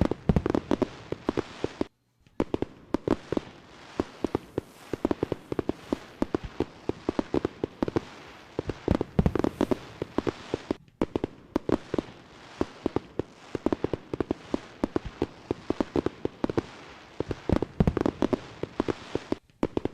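Fireworks going off: a dense, irregular run of sharp cracks and pops, many per second, with a couple of brief breaks.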